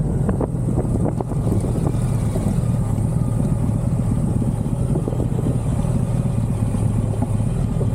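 Motorcycle cruising at a steady speed: a 1985 BMW K100's inline-four engine running with an even hum, under road and wind noise.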